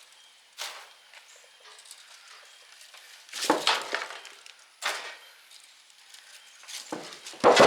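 Irregular metallic clanks and knocks as cut copper windings are pulled and worked out of an electric motor's stator, about half a dozen hits with the loudest near the end.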